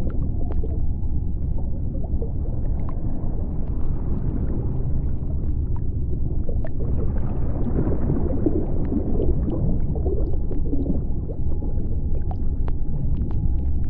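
Underwater ambience of the sea floor: a steady deep rumble with scattered sharp clicks. A gurgling wash swells up about halfway through and then fades.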